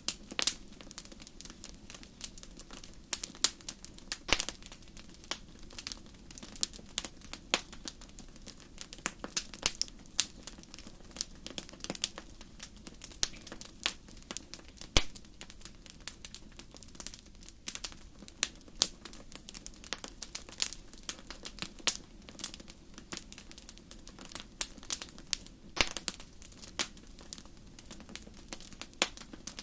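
Wood fire crackling, with frequent sharp, irregular pops and snaps over a low hiss.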